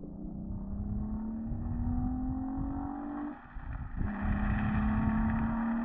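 Volkswagen Golf Mk3 VR6 engine accelerating through the gears with intake and exhaust sound. The engine note climbs steadily, breaks off briefly at a gearshift about three and a half seconds in, then climbs again from a lower pitch.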